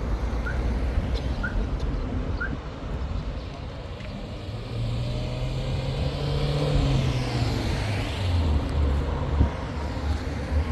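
An engine running with a steady low hum, its note coming up about halfway through and settling lower near the end.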